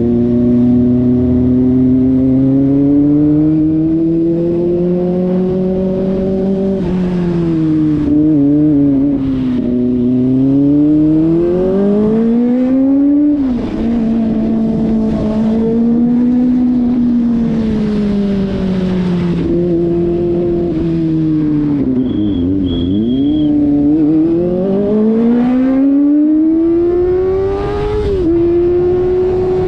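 Kawasaki ZX-25RR's 250 cc inline-four engine under way, its pitch rising and falling with the throttle and dropping abruptly at upshifts about midway and near the end. Two short high beeps come about three-quarters of the way through.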